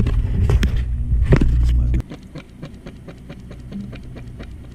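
A loud, steady low machine hum with a few knocks, which cuts off abruptly about two seconds in and gives way to faint, irregular clicking.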